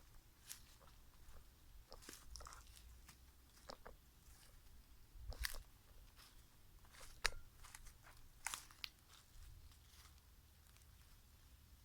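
Faint footsteps on the damp forest floor: irregular soft crunches and sharp clicks of twigs and leaves underfoot, over a low rumble.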